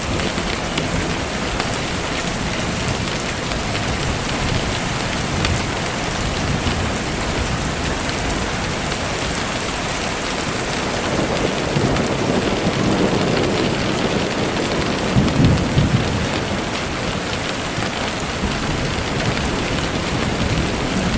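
Steady rainfall, with a low roll of thunder that swells in the middle and fades out again.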